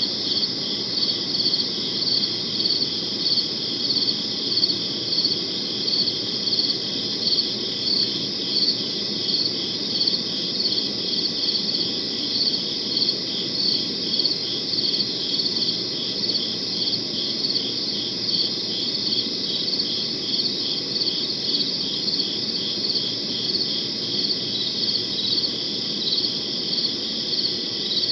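Crickets chirping in a steady night chorus, with a louder chirp repeating evenly about twice a second over a continuous trill.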